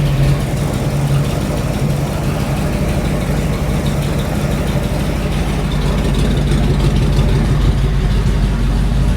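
Rat-rod car engine idling steadily during a first run, its ignition timing just set to about 10 degrees at idle.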